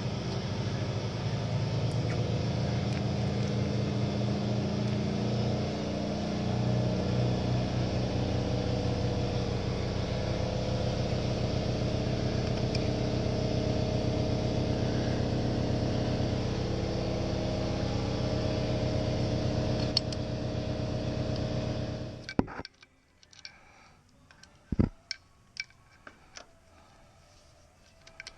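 A motor-driven machine running steadily, then cutting off suddenly a little over 22 seconds in, followed by a few light clicks.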